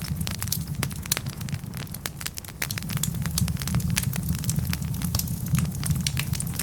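Wood fire burning in a fireplace: a steady low rumble with frequent sharp crackles and pops from the logs.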